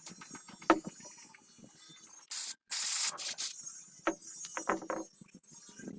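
Two hissing bursts of spray close together about halfway through, a short one followed by a longer one, among sharp clicks and small metallic clinks of parts and tools being handled.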